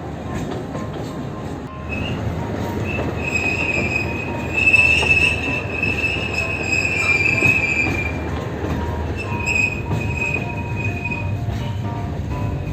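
Alishan Forest Railway train running, heard from inside the carriage: a steady rumble from the wheels, with a high steady wheel squeal starting about two seconds in, breaking off briefly and coming back before fading near the end.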